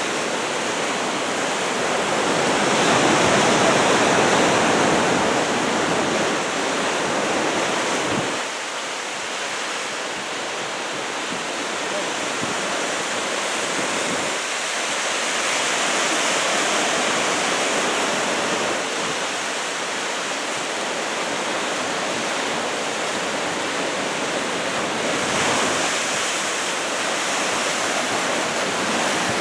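Heavy ocean surf from a typhoon swell of about two metres: a continuous rush of breaking waves. It is loudest a few seconds in and drops suddenly about eight and again about fourteen seconds in.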